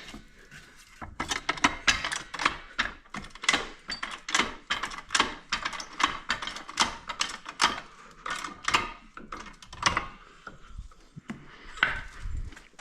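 Quick, uneven metal clicks and taps from hand tools at work on the quad, several a second, easing off near the end.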